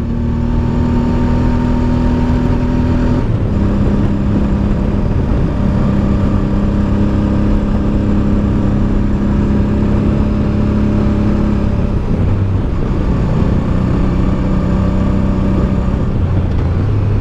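Honda Deauville's V-twin engine running steadily under way on a motorcycle, heard from the rider's position with low wind rush. The engine note steps down about three seconds in and shifts again twice later on.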